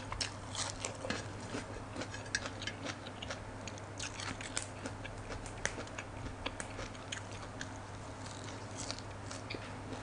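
Close-miked chewing of raw blood cockles and crisp fresh vegetables: scattered wet mouth clicks and smacks over a steady low hum.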